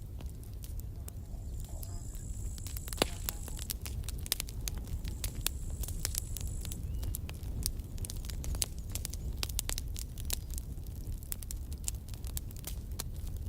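Campfire crackling, with irregular sharp pops and snaps over a steady low rumble of flame. The loudest crack comes about three seconds in. A thin high whistle sounds from about two seconds in until about seven seconds in.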